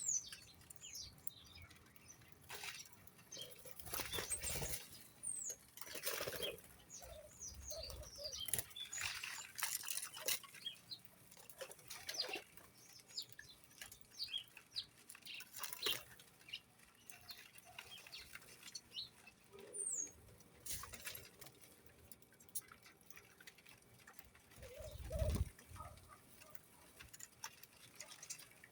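Birds fluttering and flapping their wings, with scattered taps and rustles and a few brief high chirps; a low thud about 25 seconds in.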